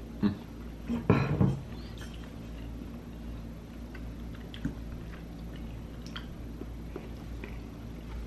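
Close-miked chewing of a mouthful of birria ramen, with a louder burst of mouth noise about a second in, then scattered small clicks.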